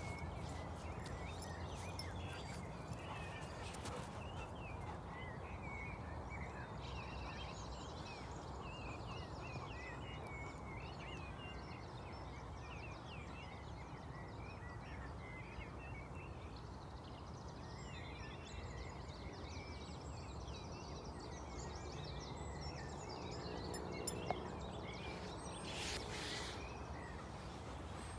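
Outdoor ambience: many small birds chirping over a steady low rumble, with two sharp clicks and a short rustle near the end.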